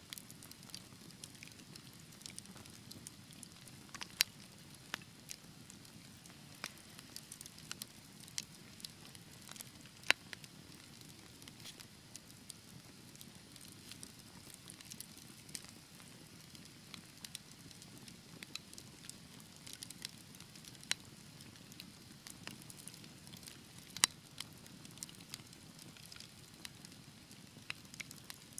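Wood fire burning with a soft steady hiss and frequent small crackles, with a few louder pops about 4, 10 and 24 seconds in.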